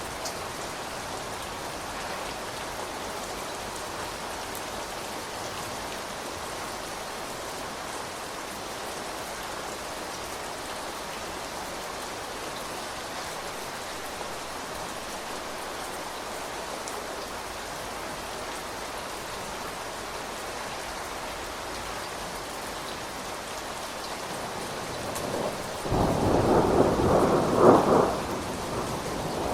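Steady rain falling, then near the end a loud clap of thunder with a short rumble over the rain.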